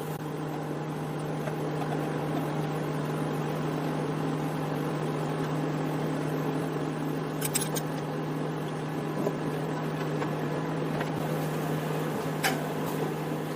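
Samsung MS23K3513AK microwave oven running: a steady low hum over an even rushing noise, with a couple of light clicks about halfway through and again near the end.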